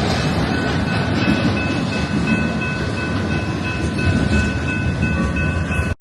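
Freight train rolling past, a steady loud rumble of wheels on rails with thin high-pitched squeals coming and going; it cuts off suddenly at the end.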